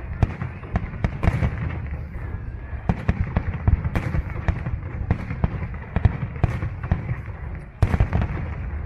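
Fireworks display: aerial shells bursting in rapid, irregular bangs and crackles over a continuous low rumble, with a burst of louder bangs near the end.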